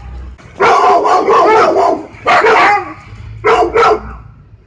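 Dog barking: a loud drawn-out run of barking lasting over a second, then a single bark, then two quick barks about three and a half seconds in.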